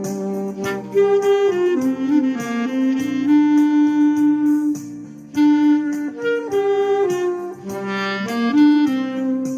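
A clarinet plays a melody of held and stepping notes over a backing track with a steady beat.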